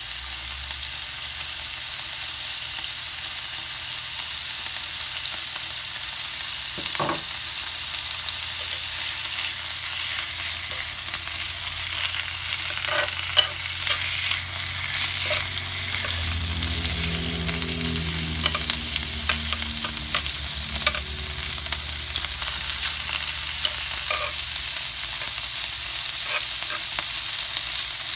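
Chicken pieces and sliced onion sizzling with a steady hiss on a hot tabletop grill plate. Metal tongs click and scrape against the plate every so often as the pieces are turned.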